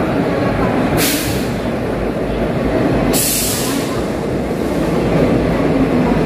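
A train running along the track, heard from on board: a steady rumble of wheels and carriage, with two short hisses about one second and about three seconds in.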